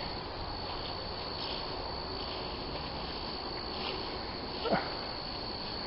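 Insects trilling steadily on one high note over a background hiss, with one brief scuff about four and a half seconds in.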